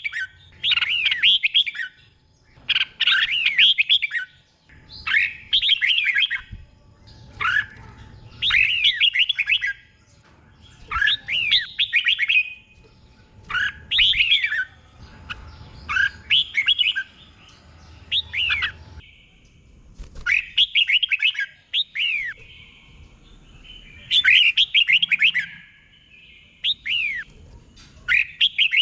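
Red-whiskered bulbul singing: short phrases of quick gliding whistled notes, one about every two seconds with short pauses between, and a slightly longer pause about two-thirds of the way through.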